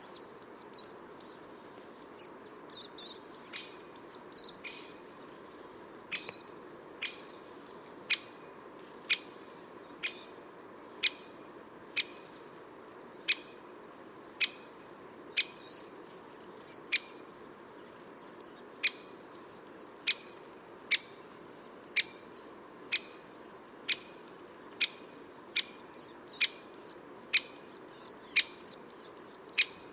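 Garden songbirds calling: a dense run of short, high chirps, with sharp ticks repeating roughly once a second.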